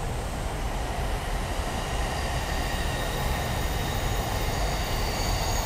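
Electric train running past on nearby tracks: a steady rumble, with a faint high whine joining about two seconds in.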